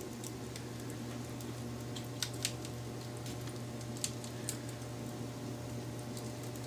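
Wood fire crackling: scattered sharp pops and snaps over a steady low hum, the loudest pops a little over two seconds in and again around four seconds in.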